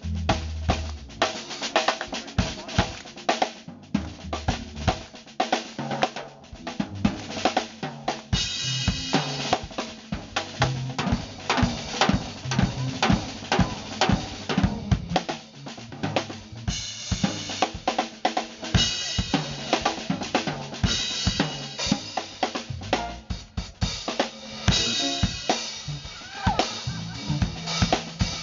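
Live band playing an instrumental passage: a drum kit keeps a steady beat on bass drum, snare and hi-hat, under a walking bass line and keyboards.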